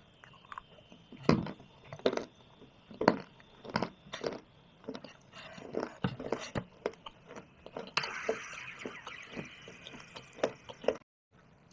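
Shale stone and clay being bitten and chewed close to the microphone: a series of sharp, separate crunches, then a denser crumbling grind from about eight seconds in that cuts off suddenly near the end.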